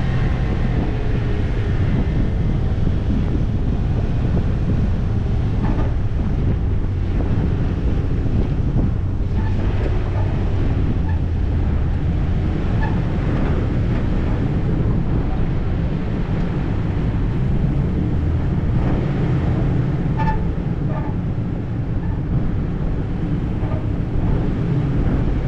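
Vehicle driving on an off-road trail: steady low engine and tyre rumble with wind buffeting the microphone, and a few light clicks along the way.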